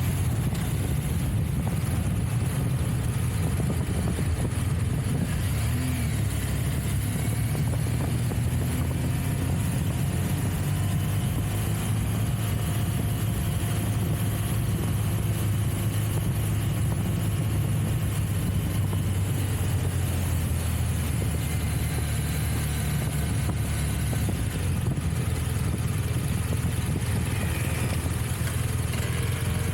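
Trial motorcycle engine running as the bike is ridden, a steady low drone with little change in pitch.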